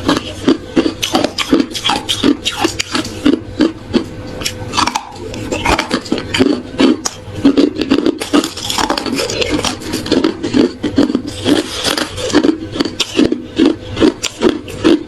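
Close-miked chewing of hard ice, a rapid run of loud crunches at about three a second.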